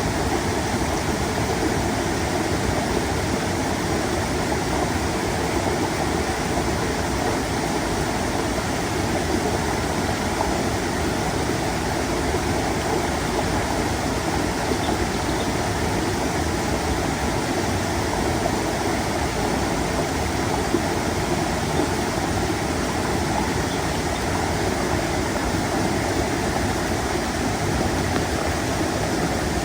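Stream water rushing and babbling over rocks, a steady unbroken rush.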